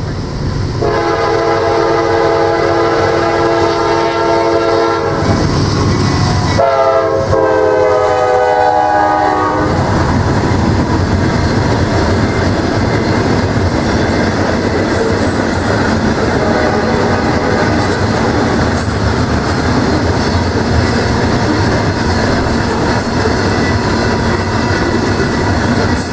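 Diesel locomotive air horn sounding two long blasts, the second bending down in pitch as the locomotive goes by. Then a steady rumble and clatter of the train's wheels running over the rails.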